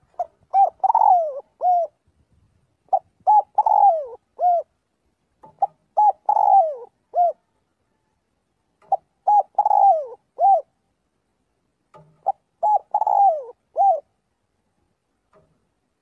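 Spotted dove cooing its song five times, about every three seconds. Each phrase is a couple of short coos, a longer coo that falls in pitch, and a last short coo.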